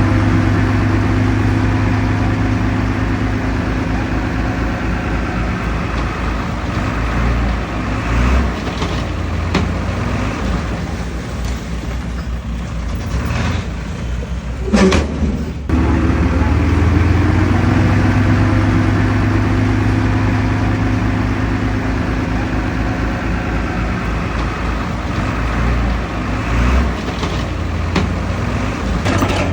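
Heavy diesel engine of earthmoving machinery running steadily. Its engine note fades about a third of the way in and builds back up past the middle. There is a short, sharp sound about halfway through.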